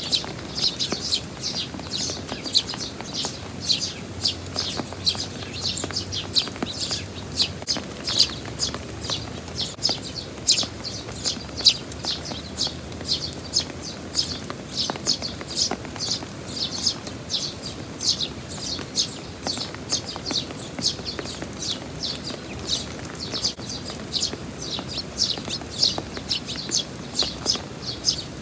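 Eurasian tree sparrow chirps, short sharp notes in quick succession, several a second, over a steady hiss of heavy rain.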